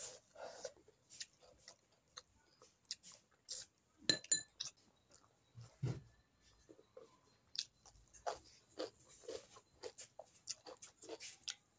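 Close-up eating sounds: wet chewing and lip smacks of fish curry and rice eaten by hand, as irregular short clicks and smacks. A brief ringing clink about four seconds in.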